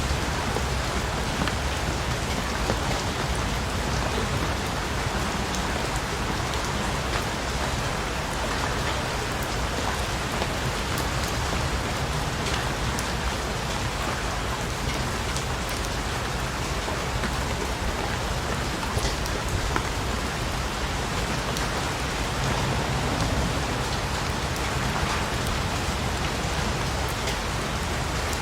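Steady rain falling, a dense even hiss with scattered sharper drop ticks and a low rumble underneath.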